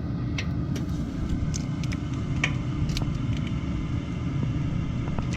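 Water heater running with a steady low rumble, with a few light clicks and taps scattered through it.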